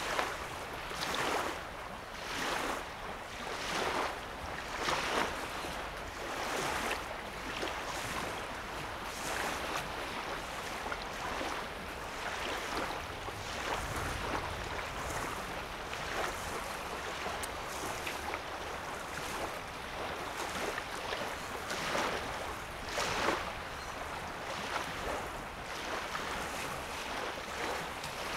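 Small wavelets lapping at a lake's sandy shoreline, with a soft, irregular splash every second or two over a steady wash of water.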